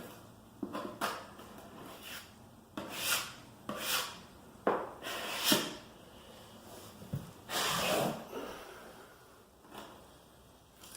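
Putty knife scraping and spreading patching plaster into chipped tile, in a series of irregular short scraping strokes with a longer one about eight seconds in.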